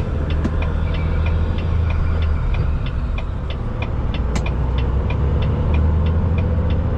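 Semi truck's engine running, heard from inside the cab as a steady low drone, with an even ticking about three times a second over it and one sharper click about four seconds in.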